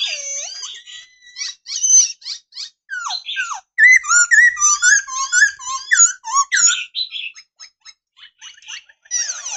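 Black-throated laughingthrush singing a varied song of rapid whistled notes and quick rising and falling glides, pausing briefly near the end.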